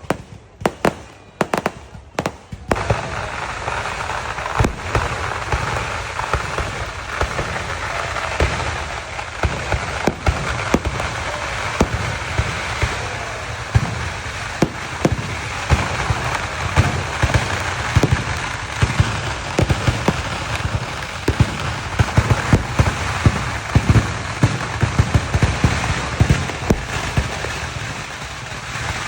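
Temple fireworks display (vedikkettu): a few separate sharp bangs, then from about two and a half seconds in a dense, continuous barrage of rapid bangs and crackling.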